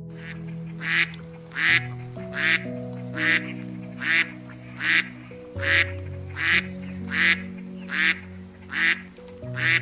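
An animal calling in short, evenly spaced calls, about one every three-quarters of a second, over background music with held chords.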